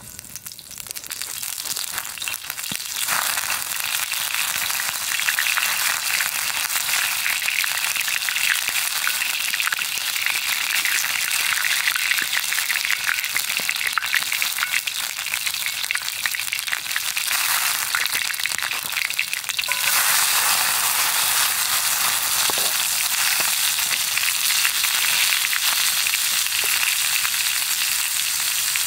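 Ground beef sizzling in a cast iron skillet, a dense crackling hiss that builds over the first few seconds. About twenty seconds in it turns into a smoother, slightly louder sizzle.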